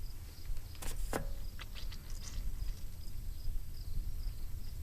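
Outdoor background: a steady low rumble with insects chirping faintly and evenly, broken by two sharp clicks about a second in and a few faint chirps soon after.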